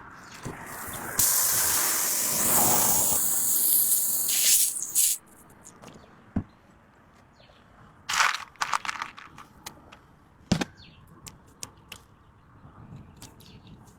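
Air hissing loudly for about four seconds, then stopping abruptly, followed by scattered clicks and short scrapes of small tyre-repair tools being handled.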